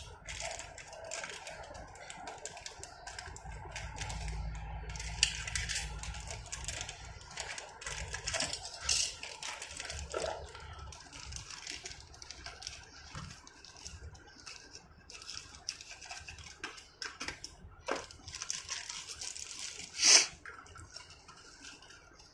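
Cardboard and plastic toy-car packaging being handled and opened, with scattered rustles, taps and clicks and one sharper knock about twenty seconds in.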